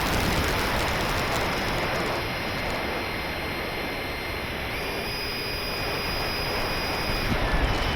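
Thin whine of a 70mm electric ducted fan RC jet in flight, stepping up in pitch about halfway through as the throttle is raised, over a steady hiss of rain.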